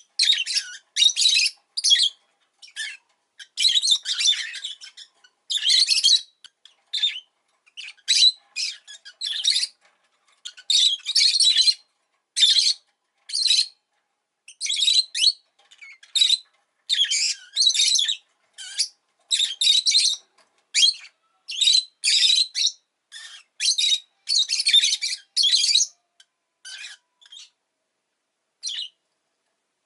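Rosy-faced lovebird chirping: a quick, irregular run of high, shrill chirps and squawks in short bursts, thinning out near the end.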